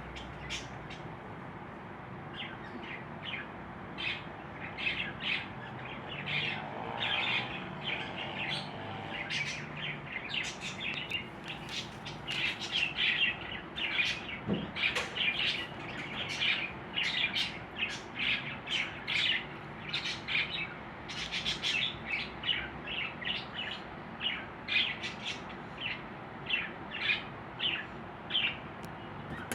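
Budgerigars chirping: many short high chirps in quick succession, getting busier after about ten seconds.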